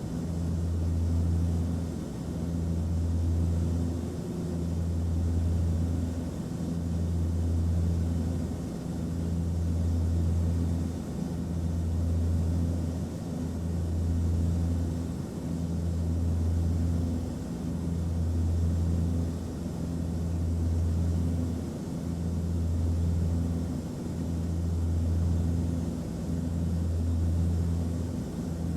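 Airplane cabin noise: a steady low rumble of engines and airflow, swelling and easing about every two seconds.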